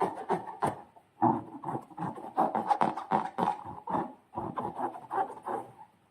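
Slime being squished and worked by hand: a run of quick, irregular sticky squelches and small crackles, with short pauses about a second in and past the middle.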